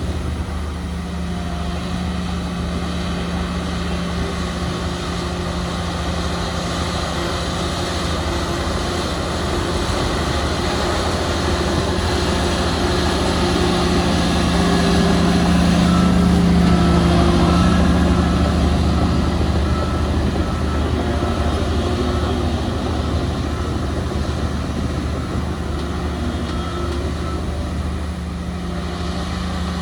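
Heavy diesel earthmoving machinery running steadily with a low engine drone, growing louder about halfway through and then easing off again.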